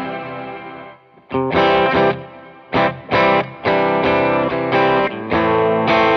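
Electric guitar, a Gibson Les Paul with P90 pickups played through an effects pedalboard with light overdrive, strumming chords. One chord dies away to a brief stop about a second in, then rhythmic chord stabs follow, and the last chord is left ringing near the end.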